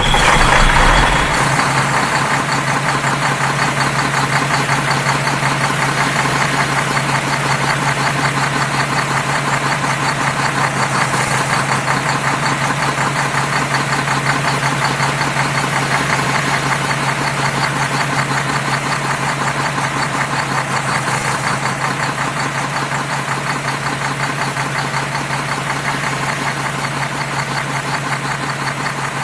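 Engine idling steadily with a rapid, even chugging and a low steady hum, fading slightly near the end.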